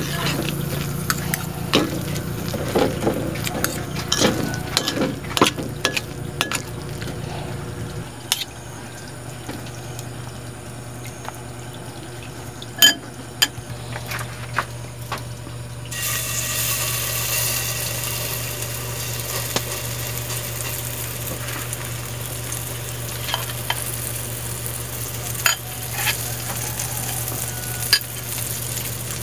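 A metal spoon stirring and clinking through mushroom fritter batter in a bowl. About halfway through, a steady sizzle starts as spoonfuls of batter fry in hot oil in a wok, with scattered pops and spoon taps.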